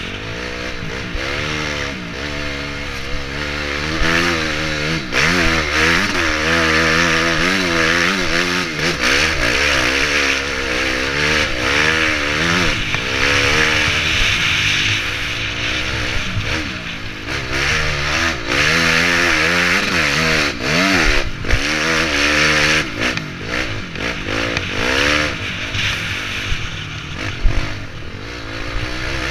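Honda CRF250X enduro motorcycle's single-cylinder four-stroke engine, heard onboard, revving up and down over and over as the throttle is opened and shut around the track.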